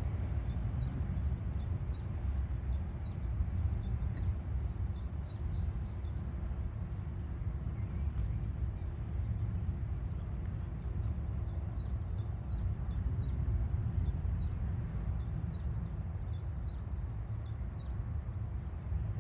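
A small bird calling in two runs of short, high, quickly repeated chirps, each note flicking downward, over a steady low rumble.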